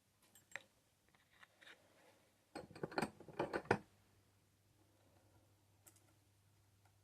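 Light metallic clicks and clinks of a small screwdriver and a brass pocket plate being set into a bench vise, with a quick flurry of knocks and clinks a little before the midpoint and one more click near the end.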